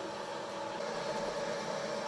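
Sawmill machinery running steadily: an even mechanical hum with several steady tones.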